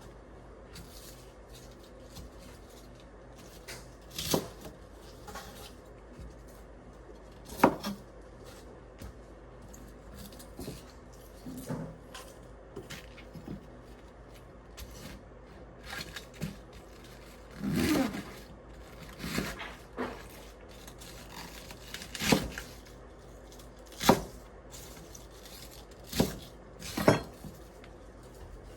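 Kitchen utensils and dishes being handled during cooking prep: scattered knocks, clicks and clinks with a brief scrape, about a dozen separate sounds over a low steady background.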